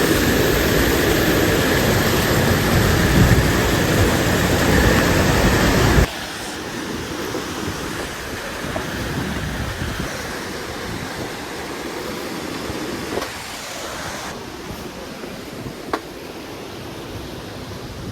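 Steady rush of waterfall water, loud for about six seconds, then dropping suddenly to a softer rush, with a few faint clicks later.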